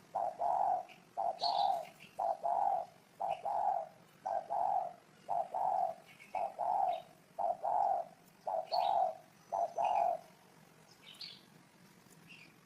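Spotted dove cooing: a long series of low coo notes in short groups of two or three, stopping about ten seconds in. Small birds chirp faintly at a higher pitch.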